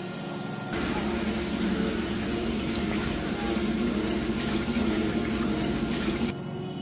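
A loud, rushing, water-like noise cuts in about a second in and cuts off suddenly near the end, over steady background music.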